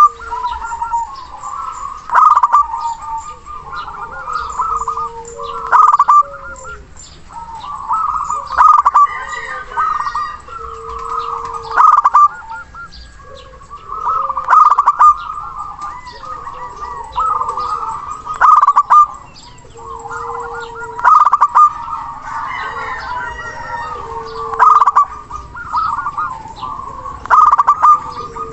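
Zebra dove (local perkutut) cooing its song in repeated phrases every few seconds, with a held lower note recurring between bursts of quicker, higher notes.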